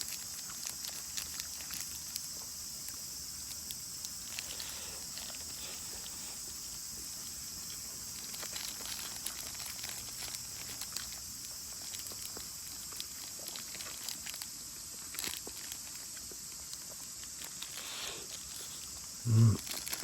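Steady high-pitched hiss with scattered faint crackles and clicks from a wood fire burning in a fire pit. A short low voiced sound comes just before the end.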